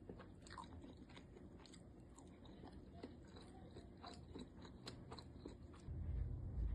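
Close-miked chewing of siomai (steamed pork dumplings), with scattered wet mouth clicks and smacks. A low rumble starts about six seconds in.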